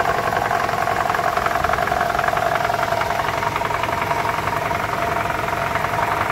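Toyota 2AR-FE 2.5-litre four-cylinder engine idling, with a steady fast rattle heard from under the car at the oil pan. The rattle comes from the balance shaft assembly, which the owner traced to failed balance shaft gears.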